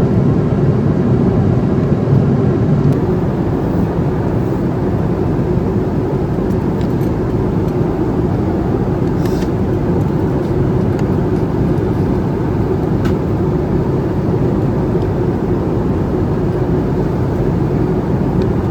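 Steady cabin noise of a Boeing 747-400 airliner in flight: a constant low rush of air and engine noise with a steady hum, and a couple of faint clicks.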